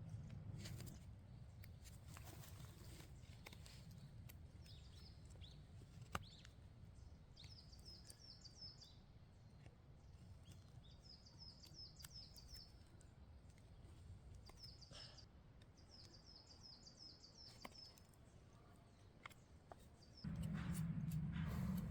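A small bird calls in four short bursts of quick, high chirping notes, over a faint low rumble and scattered light clicks. Near the end a louder low rumbling noise starts suddenly.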